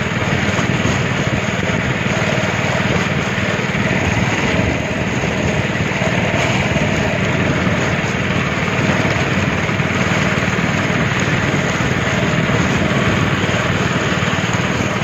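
Speedboat engine running steadily while under way, under a constant rush of wind and water.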